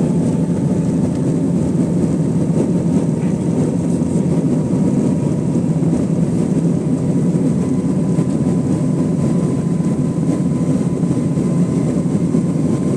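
Steady cabin noise of an Airbus A320 with CFM56-5A3 engines, heard from a rear seat: a low, even rush of air and engine sound with a faint steady whine above it.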